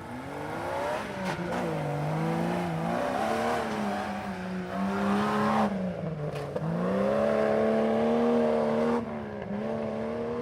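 Off-road truck engine revving hard, its pitch rising and falling several times, then climbing and holding high for a couple of seconds before easing off near the end.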